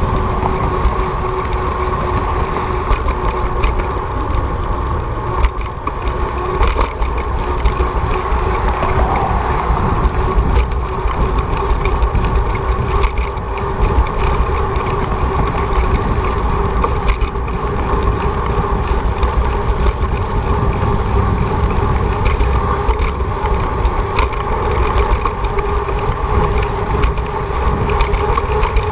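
Wind buffeting the microphone during a fast bicycle ride, a loud steady rumble with a steady whine running underneath.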